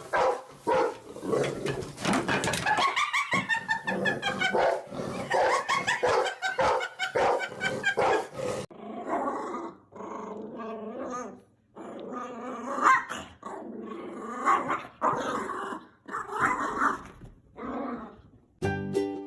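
A dog vocalizing with barks and growls. The sound changes abruptly about eight and a half seconds in, then continues with more dog sounds.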